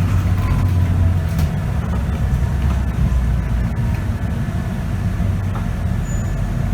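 Scania K94UB bus's nine-litre five-cylinder diesel engine running under way, a steady low drone with road rumble, heard from inside the bus. The low rumble shifts lower in pitch about a second and a half in.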